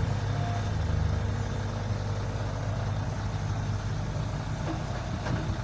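Dump truck's diesel engine running steadily with a low, even drone.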